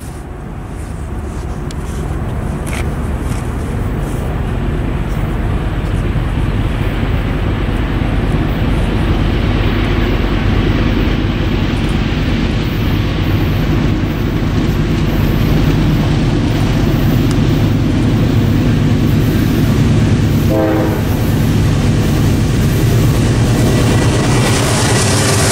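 Norfolk Southern diesel freight locomotives approaching, their engines a low rumble that grows steadily louder. About three-quarters of the way through comes a brief horn note, and near the end the wheel and rail noise rises as the lead locomotive draws level.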